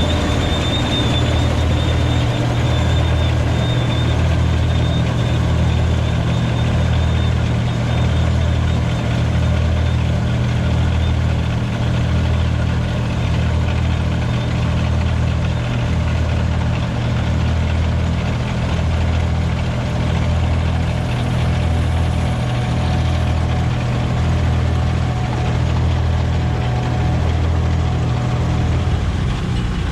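Don-1500B combine harvester running under load while picking up and threshing barley windrows, its V8 diesel engine and threshing machinery making a loud, steady low drone. The drone dips in a regular beat a little more than once a second.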